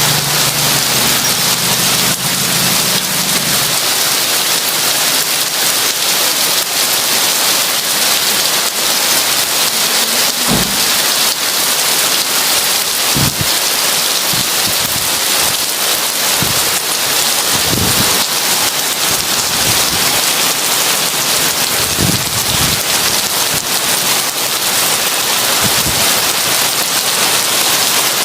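Heavy rain falling in a dense, steady hiss. Several short, low rumbles of thunder come at intervals from about ten seconds in.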